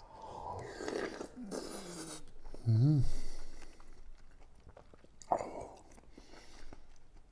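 A man eating rice soaked in stew: chewing and mouth clicks, with a short voiced 'mm' of relish about three seconds in.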